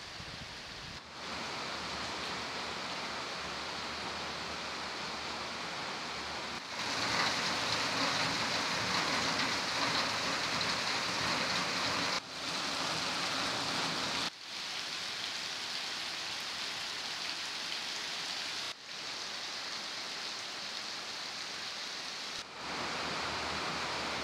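Heavy rain pouring down, a dense, steady hiss. It changes level abruptly several times, as if shots were cut together, and is loudest from about 7 to 12 seconds in.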